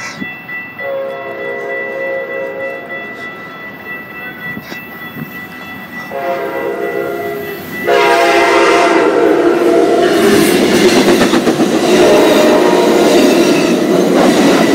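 Amtrak passenger train sounding two horn blasts as it approaches, the second about six seconds in. About eight seconds in it comes through close by with a loud rush of wheel and rail noise. A steady high warning tone runs underneath.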